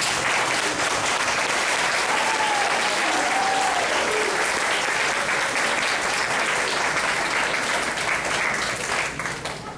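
Audience applauding, with a faint voice heard through it about two seconds in; the applause fades out near the end.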